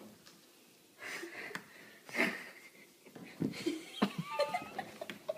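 Breathy wheezing bursts, then short clattering clicks of a fawn's hooves slipping and splaying on a slick hardwood floor.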